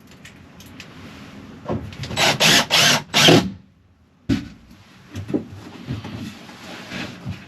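Wood scraping against wood: four quick rubbing strokes back and forth, then a sharp knock and a few lighter taps and scrapes as a board is worked into place.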